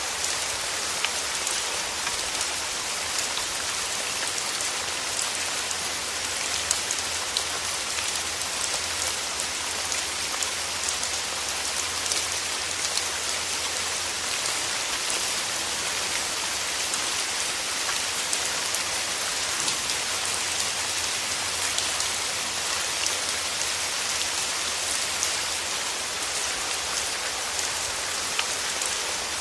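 Steady rain falling, a continuous hiss of rainfall dotted with many small scattered drop taps.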